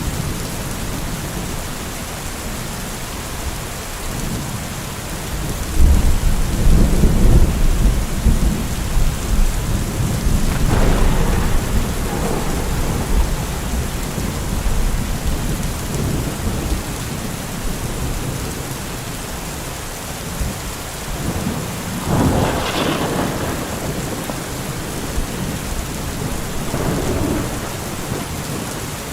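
Steady rain with rolling thunder. The heaviest rumble comes about six seconds in and lasts several seconds, with weaker rumbles later on.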